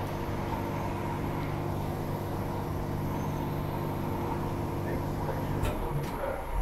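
Steady multi-tone electrical hum inside a Transperth A-series electric multiple unit. The hum cuts out near the end with a couple of sharp clicks.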